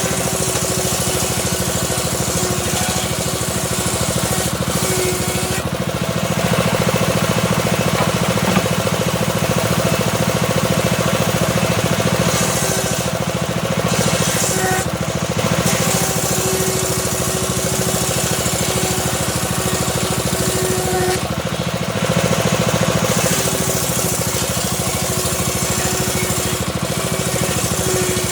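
Homemade engine-driven circular saw running steadily as its blade slowly rips a small teak log, a fast low pulse from the engine under a blade tone that wavers as it takes the wood.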